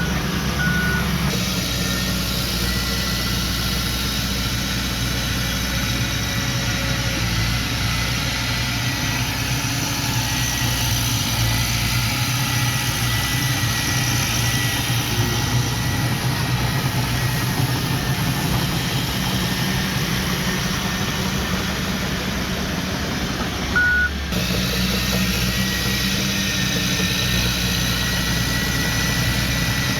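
Heavy diesel engine of earthmoving machinery running steadily. A single short reversing-alarm beep sounds about 24 seconds in.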